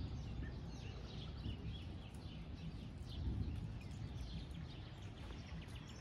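Birds chirping, many short falling calls several times a second, over a low rumble.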